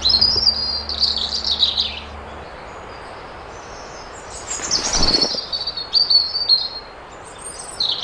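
Small birds chirping and twittering in two spells, one in the first two seconds and another from about four and a half to seven seconds, over a steady outdoor hiss. A low held music note ends about two and a half seconds in.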